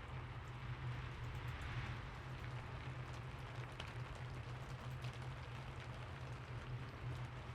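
Steady rain falling, with scattered individual drops ticking through it and a steady low hum underneath.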